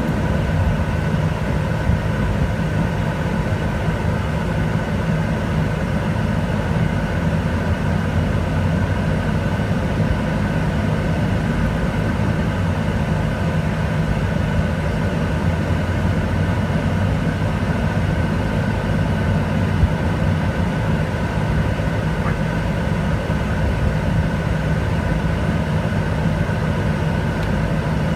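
A steady engine hum with a low rumble that holds unchanged throughout.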